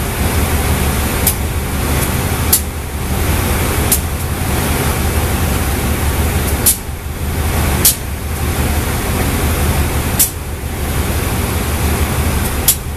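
A train rolling through the station at low speed. A steady, loud rumble from the diesel engine and the moving coaches is broken by sharp wheel clacks over rail joints, one every second or two.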